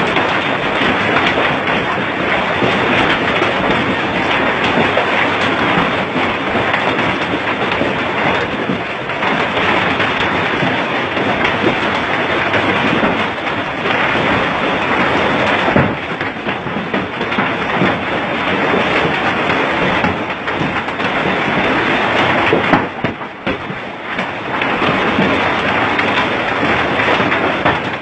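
Heavy rain pouring down, a loud steady rush of noise that dips briefly about three quarters of the way through.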